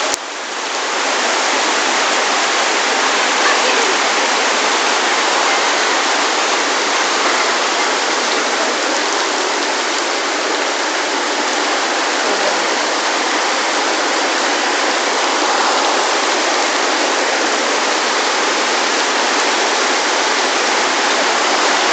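Pouring rain falling on a lake: a steady, even hiss of countless drops striking the water's surface.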